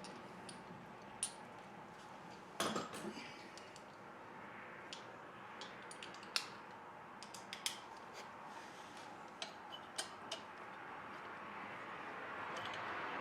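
Scattered metal clinks and clicks of hand tools and loose engine parts being handled, with a louder clank about two and a half seconds in.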